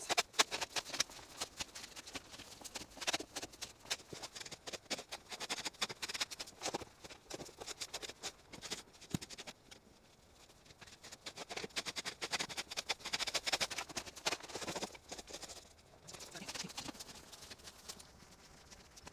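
Wood campfire crackling: a continuous run of irregular sharp pops and snaps, thickest about two-thirds of the way through and thinning out near the end.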